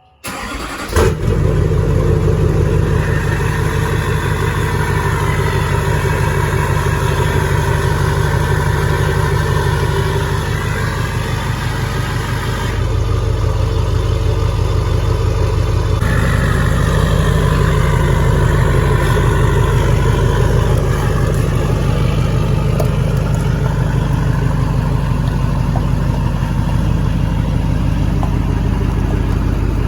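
LLY Duramax 6.6-litre V8 turbodiesel running through a 4-inch straight-pipe exhaust, mostly at a steady idle. It comes in abruptly, with a loud burst about a second in.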